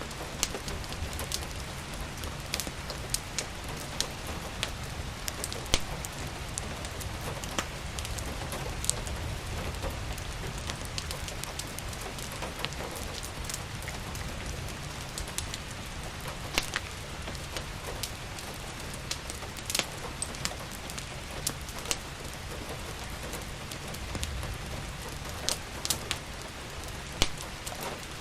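Steady rain with a crackling wood fire: a constant hiss of rain over a low rumble, broken by irregular sharp pops and crackles.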